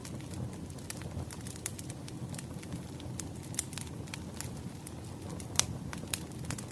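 Wood fire crackling: irregular snaps and pops over a low steady rumble, with one sharper pop about five and a half seconds in.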